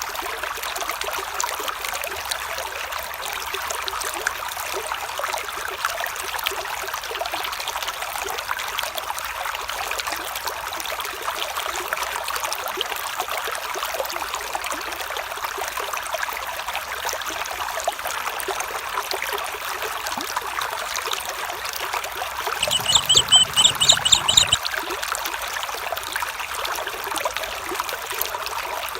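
Small stream trickling and babbling steadily. Near the end, a rapid high-pitched trill lasts about two seconds and is the loudest thing heard.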